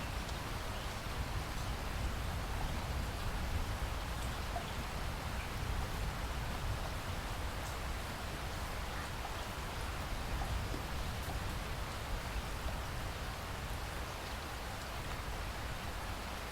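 Steady rain falling on foliage in a rainforest, a continuous even hiss with scattered faint drop ticks.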